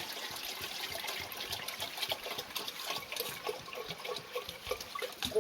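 Water trickling and splashing, with many small plinks, and a short sharp knock near the end.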